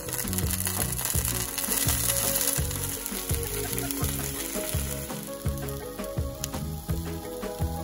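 Egg omelette frying in a nonstick pan, a steady sizzle that is loudest in the first couple of seconds as it is folded over with a spatula. Background music plays underneath.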